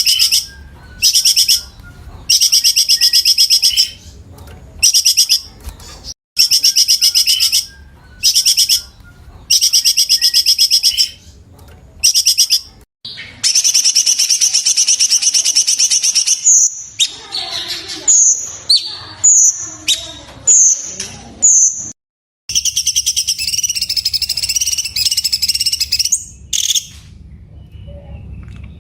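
Cucak cungkok song: loud, rapid, high-pitched trilled bursts of about a second each, separated by short pauses, with a run of short clear whistled notes around the middle and a longer trill near the end.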